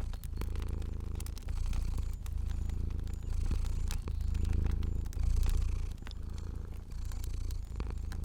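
Domestic cat purring in a steady rhythm that swells and dips about once a second with its breathing, over scattered pops and clicks of a crackling fire.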